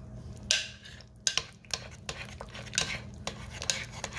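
A metal spoon stirring liquid in a slow cooker's crock, clinking and scraping against the pot several times. A cornstarch slurry is being stirred into the cooking juices to thicken them.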